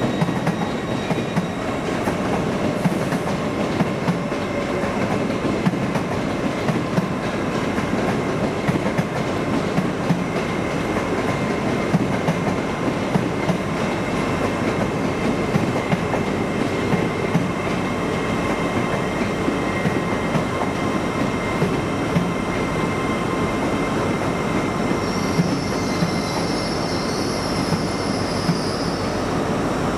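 A train running steadily through the station, its wheels clicking over the rail joints. A high-pitched wheel squeal comes in about 25 seconds in and again at the very end.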